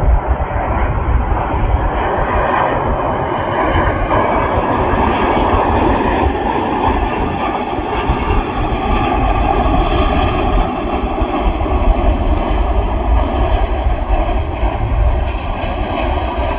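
Airbus A350 jet engines as the airliner lands: loud, steady engine noise with faint high whining tones over a deep rumble.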